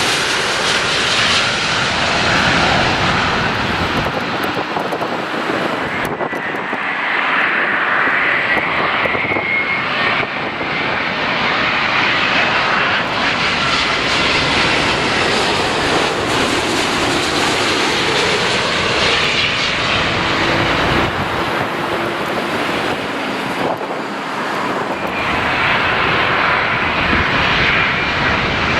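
Jet airliner's engines running loud and steady as the aircraft passes close, with a high whine over the noise that swells and fades.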